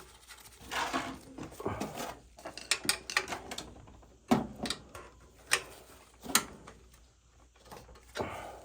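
Metal burner parts and hand tools being handled and fitted on an oil burner: a run of irregular clicks, knocks and clatter, with a brief scraping stretch about a second in.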